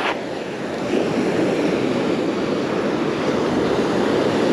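Surf washing onto the beach, with wind on the microphone: a steady rushing noise that swells slightly about a second in.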